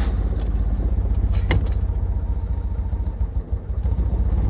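Citroën 2CV's air-cooled flat-twin engine running steadily on choke, moments after catching on a cold start. One sharp click about a second and a half in.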